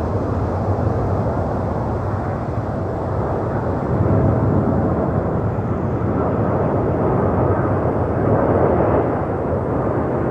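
Jet engine noise of a landing Boeing 787-9 airliner, loud and steady, swelling slightly about four seconds in and again near the end.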